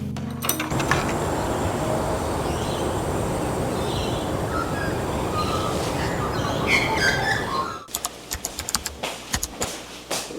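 Steady outdoor traffic noise with small birds chirping over it, after music cuts off at the very start. About eight seconds in it gives way to a quieter run of light clicks and knocks.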